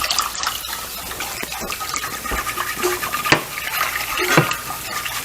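Chicken broth being stirred into a butter-and-flour roux in a skillet: a steady scrubbing, liquid stirring sound with a few light clicks of the utensil against the pan.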